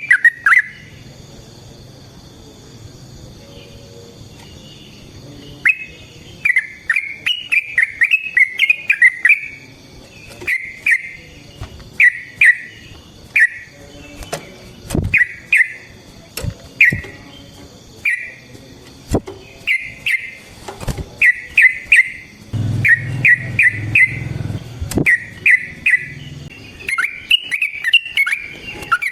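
Yellow-vented bulbul (trucukan) singing: repeated short, bubbly phrases of quick notes that start after a pause of about five seconds and run on with brief gaps, with sharp clicks scattered among them.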